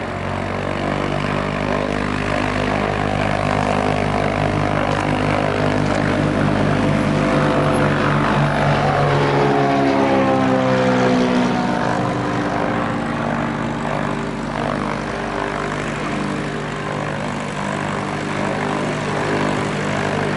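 Autogiro's propeller and engine droning as it passes by: the sound swells, drops in pitch about halfway through as it goes past, then eases off a little.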